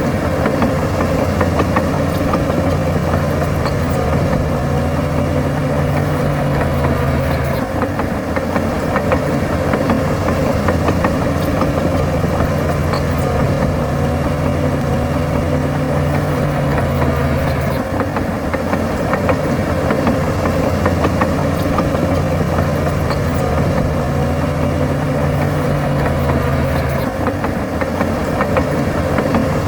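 A bulldozer's diesel engine running continuously while it pushes soil. Its low engine note changes about every ten seconds, three times in all, as the load shifts.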